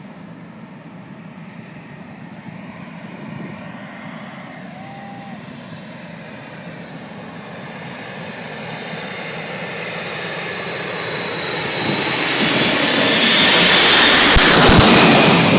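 Boeing 747's jet engines, growing steadily louder from a distant rumble to a loud rushing roar with a high whine, loudest a couple of seconds before the end.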